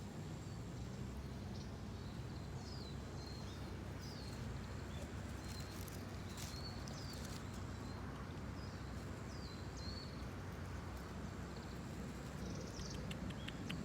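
Small birds chirping now and then in short high calls over a steady low hum.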